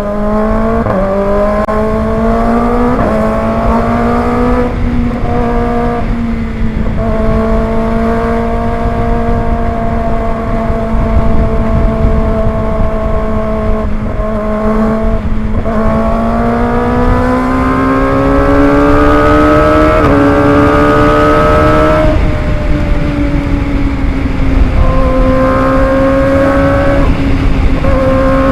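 Kawasaki ZX25R's inline-four engine pulling hard under way. Its pitch climbs through the gears and drops briefly at each shift, several times, over a steady rush of wind noise.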